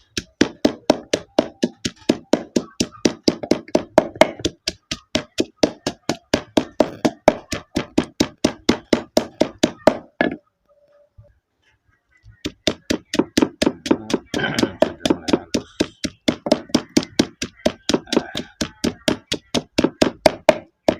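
Chilies and spices being worked fine by hand with rapid, even, dull strikes, about four a second. The strikes stop for about two seconds just before halfway, then start again.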